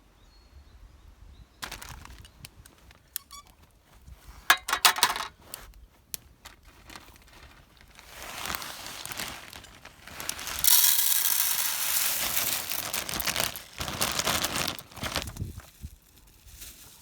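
Handling noises while cooking: rustling and a few sharp clicks, then, about ten seconds in, a loud hiss lasting three or four seconds.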